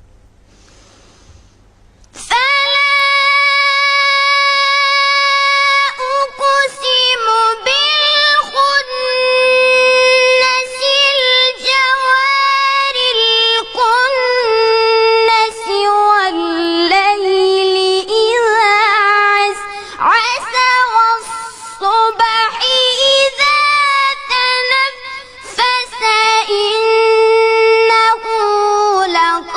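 A single high voice chanting Quran recitation in long, ornamented melodic phrases, each note held and turned, starting about two seconds in.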